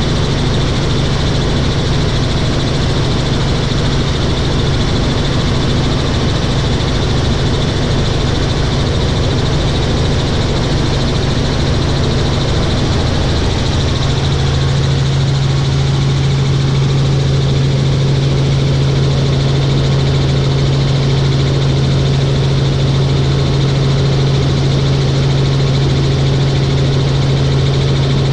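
Helicopter in flight: a steady, loud drone of rotor and engine with a strong low hum that grows stronger about halfway through.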